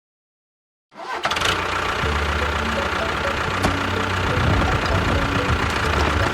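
An engine running steadily with a low rumble and a light knocking beat. It cuts in suddenly about a second in, after dead silence.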